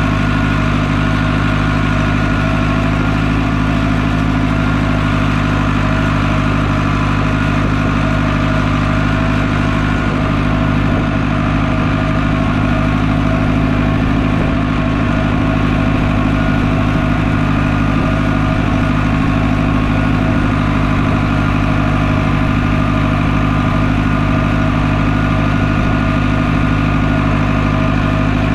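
Farm tractor engine running steadily while pulling a round baler through the hay. It makes a constant drone that holds one pitch, with no change in speed or load.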